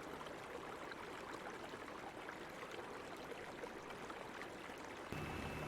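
Faint, even sound of flowing water, like a stream. About five seconds in, a low hum and a thin steady high tone join it.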